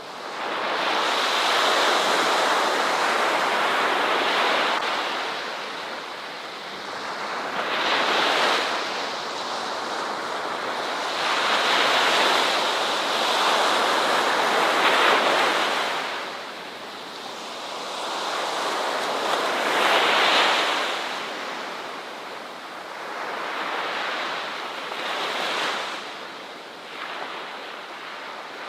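Ocean surf: waves breaking and washing in and out, swelling and fading in surges every few seconds.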